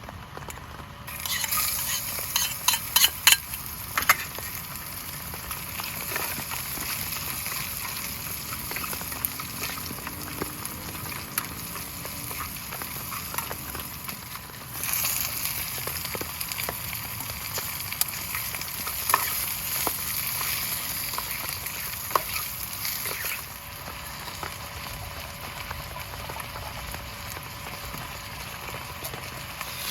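Food sizzling in a pan over a wood-fired camp stove, a steady frying hiss, with a few sharp knocks of a utensil against the pan about two to four seconds in and scattered lighter clicks later.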